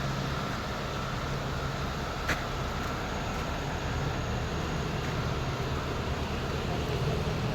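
A steady low machine hum, with one sharp click a little over two seconds in.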